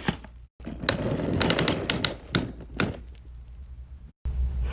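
Clattering train sound effects: a run of sharp clicks and knocks from about one to three seconds in, then a low steady rumble starting near the end.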